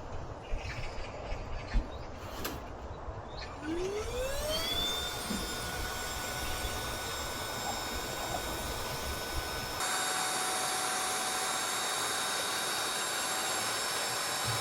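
A small electric motor spins up, its whine rising in pitch and then holding a steady tone. About ten seconds in it turns brighter and thinner, and then it stops abruptly.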